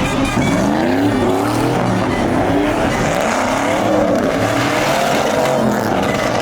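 Truck engine revving up and down with tires squealing and skidding, as in sideshow donuts or a burnout.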